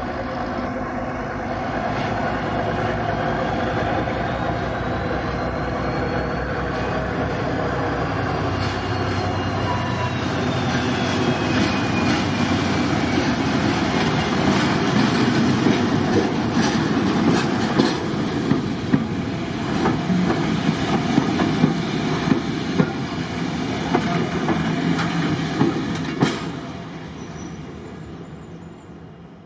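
Diesel-hauled train passing: a locomotive's engine running steadily at first, then the wheels clattering over rail joints in a run of sharp clicks, fading away near the end.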